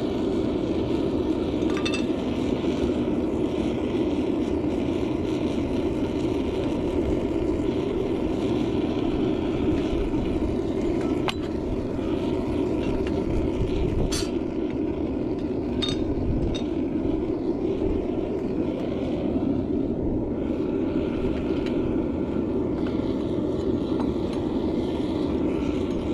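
Metal-melting furnace burner running with a steady, even rushing noise, broken by a few brief light metallic clinks.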